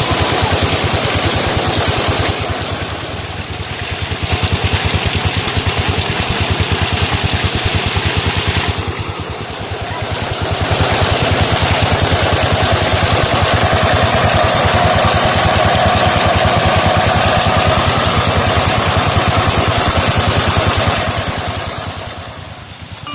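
16 HP diesel engine running steadily as it drives a tube well water pump, with a fast, even chugging. Its level dips briefly twice.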